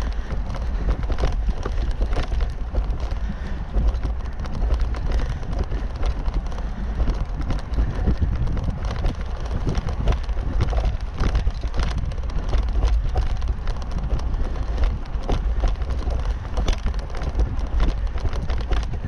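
Bicycle riding over a rough, bumpy track: many small clicks, knocks and rattles from the bike and tyres over stones, under a steady low wind rumble on the microphone.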